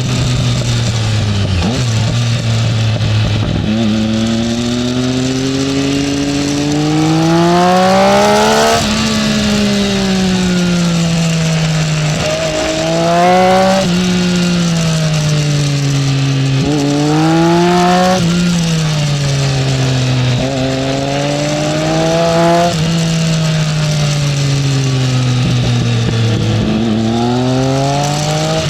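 Triumph Speed Triple's three-cylinder engine heard from on board while riding, repeatedly revving up through the gears and dropping back in pitch, about five rises in all, with steady wind rush.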